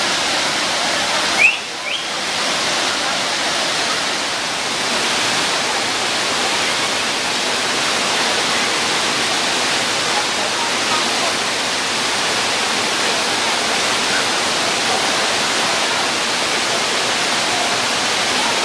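Steady rushing of water, like a waterfall or fast stream, with one brief knock about a second and a half in.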